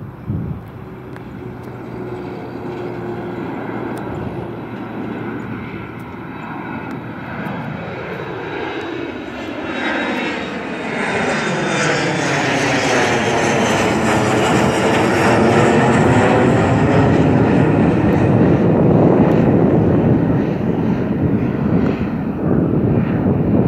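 Jet airliner taking off and passing by, its engine noise building steadily louder through the first half and staying loud, with a sweeping, phasing whoosh as it goes past.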